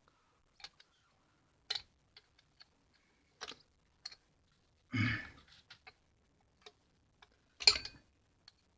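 Scattered small clicks and clinks of engine parts being handled during a teardown, with a duller knock about five seconds in and the loudest sharp clack near the end.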